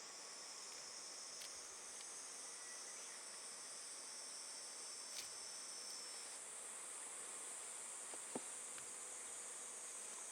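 Faint, steady, high-pitched insect chirring from more than one insect; one of them stops about six seconds in. A single light tap comes about eight seconds in.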